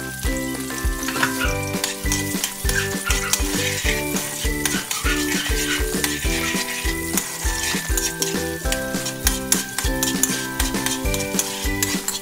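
Garlic and onions sizzling in hot oil in a wok while a spatula stirs and scrapes them around the pan. Background music with a steady beat plays throughout.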